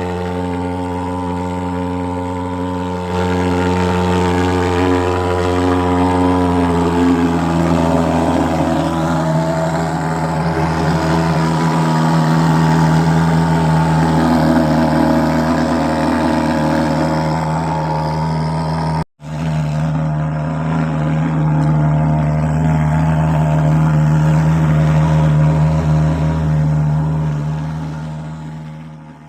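Fogging machine engine running steadily, a loud drone holding one pitch. It cuts out abruptly for a moment about two-thirds of the way through, comes back at the same pitch, and fades out at the very end.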